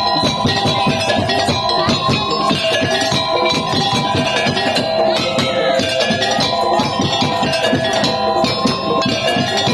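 Madurese daul (tong-tong) ensemble playing: a busy, even drum rhythm under a steady melody line.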